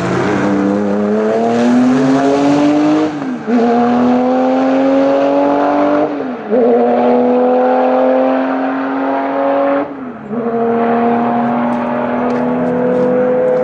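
A racing car's engine accelerating hard under full throttle, its pitch climbing through each gear, with three quick upshifts about 3, 6 and 10 seconds in, each marked by a brief drop in pitch and loudness.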